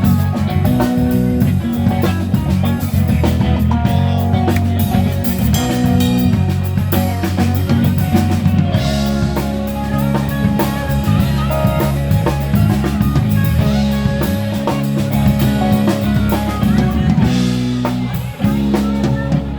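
Live band playing an instrumental passage: electric bass, drum kit and guitar, with no singing.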